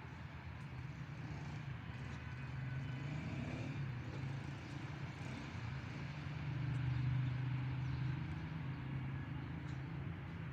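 Road traffic: a low, steady vehicle engine hum that swells as a vehicle passes, loudest about seven seconds in, then eases off.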